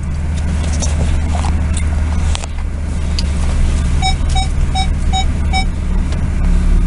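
Car running, heard from inside the cabin as a steady low rumble. About four seconds in, a warning chime beeps five times in quick, even succession.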